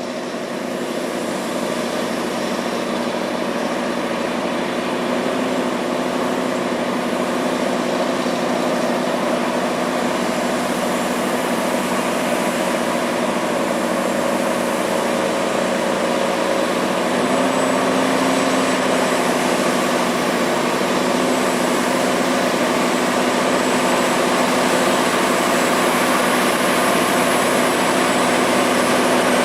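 Truck engine running steadily under load as it pulls up an incline. A continuous drone that grows slowly louder, with a slight change in pitch a little past halfway.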